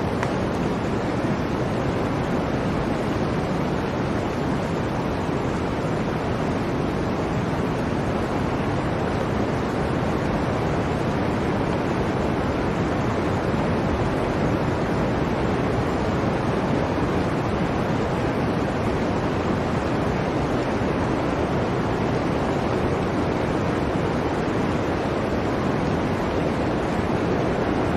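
Blizzard wind blowing in a steady, unbroken rush, with no gusts or separate sounds standing out.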